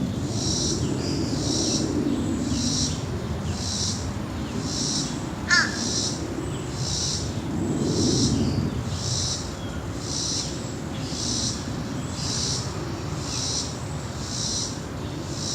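Low rumble of a distant jet airliner after takeoff, swelling and fading. A high pulsing sound repeats about twice a second throughout, and a short bird call comes about five seconds in.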